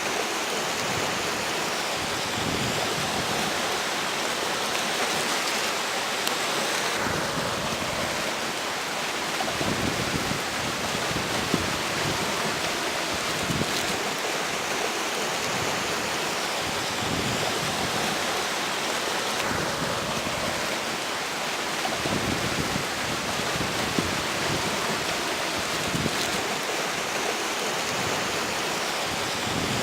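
River water rushing steadily over its bed, with strong wind blowing across the bank in gusts that come and go as low rumbles under the rush.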